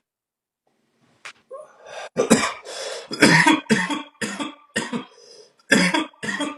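A person coughing in a fit: a string of loud, short coughs, about eight of them, starting about two seconds in, after a short click.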